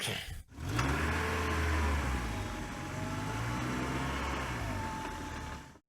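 A vehicle engine running steadily with a low hum. It starts just under a second in and cuts off just before the end.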